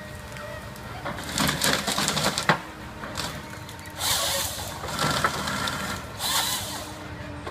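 Tree-felling machine with a rotating saw head running steadily, with three noisy bursts of cutting and cracking wood, one ending in a sharp crack about two and a half seconds in.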